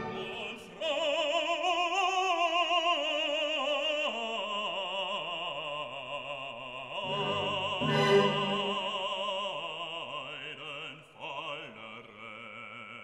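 Classical operatic singing: a trained voice holding long notes with a wide, even vibrato, with accompaniment underneath. The music fades out just before the end.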